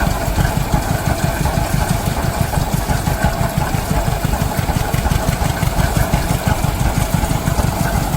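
Tractor engine running steadily on the belt to a threshing separator, a fast, even firing beat.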